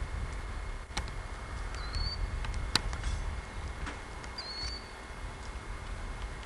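Low wind rumble on the microphone with scattered sharp clicks and two short, high, rising chirps, one about two seconds in and one about four and a half seconds in. No motorcycle engine is heard.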